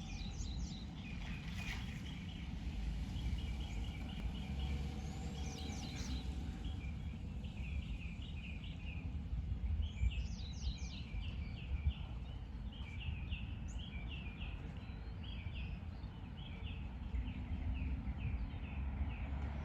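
Birds calling in rapid runs of short, high chirps, over a steady low rumble.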